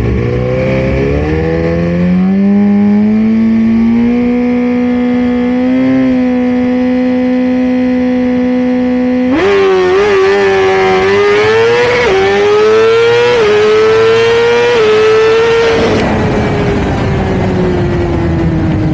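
Suzuki GSX-R1000 inline-four drag bike with a Brock's Performance exhaust at full throttle. The revs climb and then hold flat for several seconds. After an abrupt change the engine pulls up through the gears, dropping back briefly at each of about four upshifts, then the revs fall away smoothly as the run ends.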